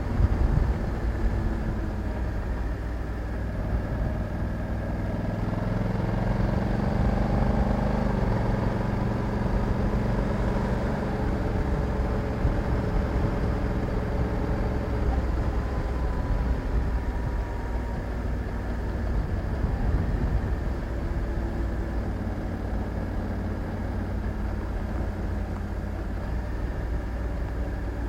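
Honda Africa Twin 1100 DCT's parallel-twin engine running steadily, its pitch rising and then easing off again between about six and ten seconds in, over a constant low rumble of wind on the microphone.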